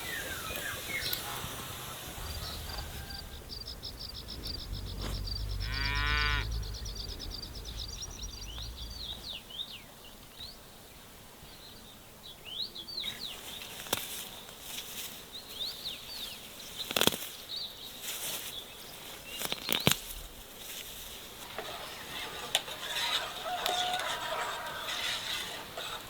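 A cow moos once, a long call about six seconds in, over a low hum, with small birds chirping high. Several sharp knocks come later.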